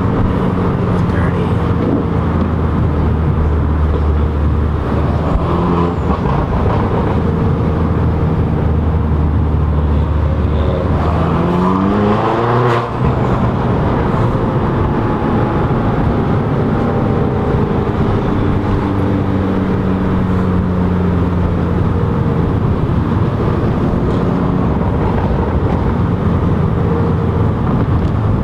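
Car engine and road noise heard from inside the cabin while driving along. The engine's revs climb briefly in the middle, then drop suddenly.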